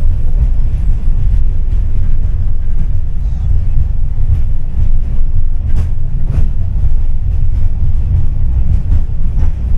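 A tram running on its rails with a loud, steady low rumble, and two sharp knocks about half a second apart around six seconds in.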